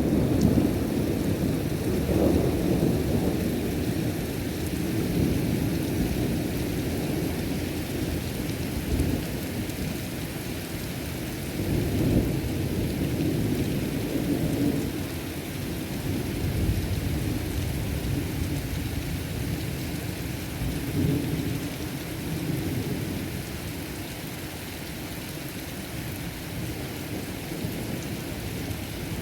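Heavy rain falling steadily under rolling thunder, the low rumbles swelling and fading several times.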